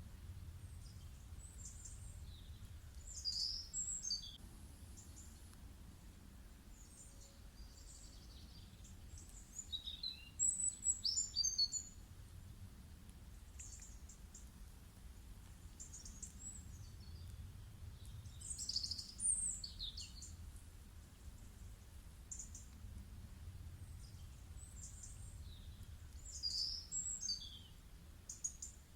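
Faint songbirds chirping and trilling in short bursts that recur every several seconds, over a soft, steady low rumble of outdoor background.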